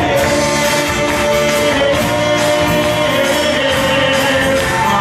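Portuguese-language pop-rock song: a voice holds one long note over a band with guitar and a steady drum beat.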